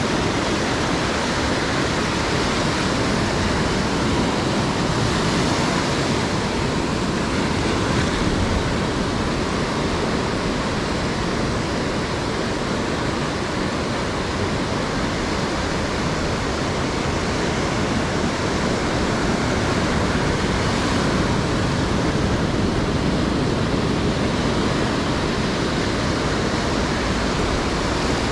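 Ocean surf washing onto the beach: a loud, steady rush of noise that swells slightly now and then.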